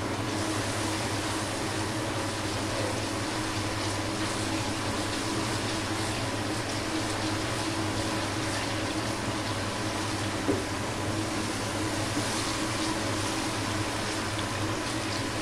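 Ginger-garlic paste with crushed onion sizzling steadily in hot oil in a wok-style pan as it is stirred with a wooden spatula. This is the brief sauté before the chicken goes in.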